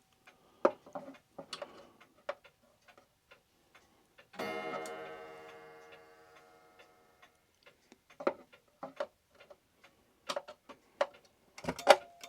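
Irregular small clicks and taps of screws being tightened and metal parts handled on a Herschede clock movement, with one struck metallic ring about four seconds in that dies away over about three seconds.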